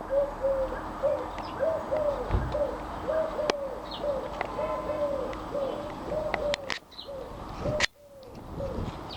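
Pigeon cooing: a long run of short, soft, arched coo notes repeated about twice a second. Small birds chirp faintly now and then, and a few sharp clicks cut in.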